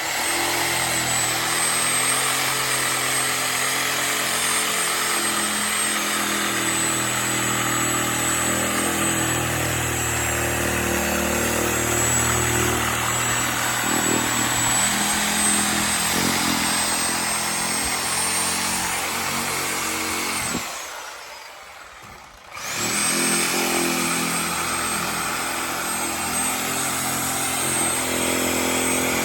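Sawzall reciprocating saw with a 6-inch metal blade running steadily as it cuts around a rubber tire's sidewall. It stops for about two seconds about two-thirds of the way through, then starts up again.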